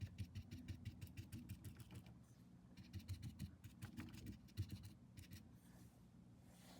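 Faint, quick scratchy strokes of a paintbrush working yellow paint onto a card, coming in short clusters with brief pauses.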